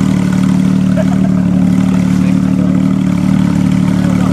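Porsche 991.2 GT3 RS flat-six idling steadily through a Sharkwerks aftermarket exhaust.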